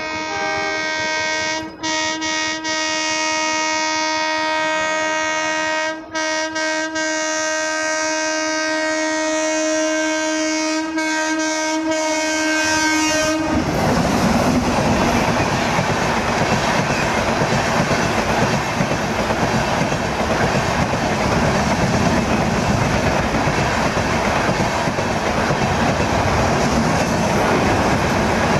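Indian Railways train sounding its horn in a long, loud blast broken by a few short gaps, which stops abruptly about halfway through. The steady rush of the train passing at speed follows.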